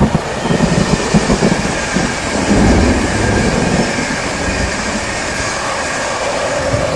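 An electric InterCity 225 express train, with a Class 91 locomotive, Mark 4 coaches and a driving van trailer, passing by on the line: a continuous rumble of wheels on rail, heaviest in the first few seconds and easing as the last coach goes by.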